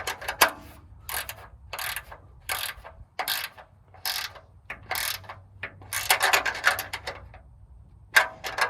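Ratchet wrench tightening the nut on a tractor spotlight's mounting bracket: a series of short rasping ratchet strokes about one every three-quarters of a second, with a longer run of quicker strokes about six seconds in.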